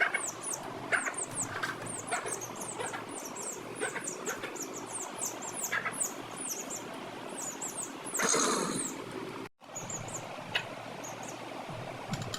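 Chicks peeping continuously, many short high falling peeps overlapping. A brief rustle a little after the middle, and the sound cuts out for an instant shortly after.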